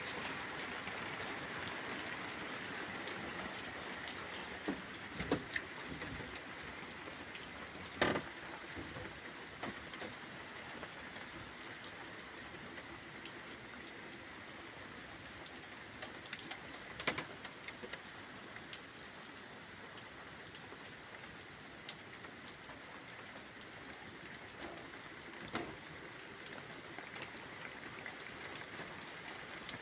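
Steady rain falling, an even hiss of drops on surfaces, with a few louder single taps now and then.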